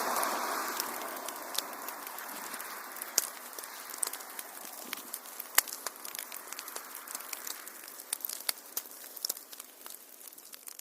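Wood fire crackling, with many sharp pops over a soft rushing hiss that fades during the first couple of seconds. The whole sound slowly dies down.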